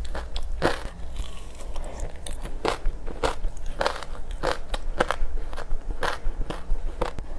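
Close-up biting and chewing of frozen matcha chunks with buckwheat seeds: sharp crunches and crispy popping at irregular intervals, about one or two a second.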